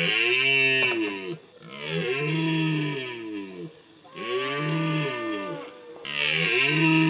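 Deer stag bellowing, four long low calls in a row, each rising and then falling in pitch: the roar of a rutting stag.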